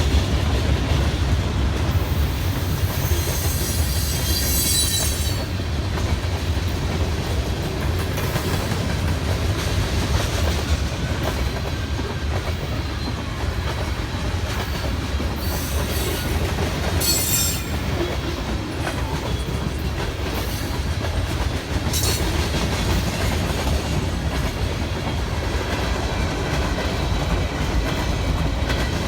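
Railcars of a passing train rolling by on jointed track with a steady rumble and clickety-clack, with several brief high-pitched wheel squeals.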